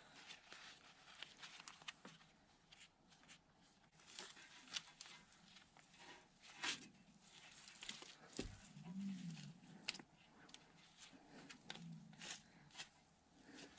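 Faint, scattered clicks and light knocks of hand work on hydraulic fittings and parts, with a couple of short, low hums in the second half.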